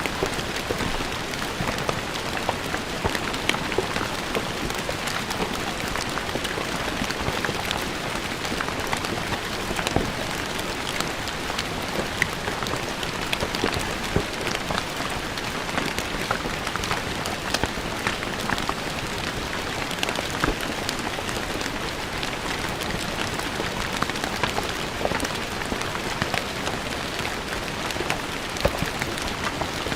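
Steady rain falling on stone paving, a constant hiss with many sharp individual drop splashes.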